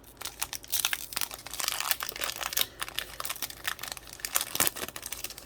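A foil Pokémon card booster pack crinkling and tearing as it is opened by hand, in a dense run of crackles, with a sharper snap of the wrapper a little after four seconds in.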